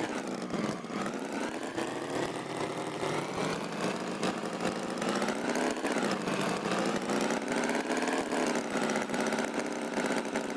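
Tractor engine running with a fast, even chug, its pitch drifting slowly up and down as it revs a little and eases off.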